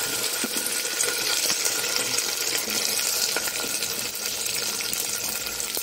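Hot oil sizzling steadily in an aluminium pressure cooker as chopped onion goes into it, with a few light clicks.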